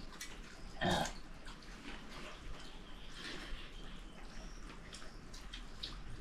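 A single short animal call about a second in, louder than everything else, over scattered small clicks.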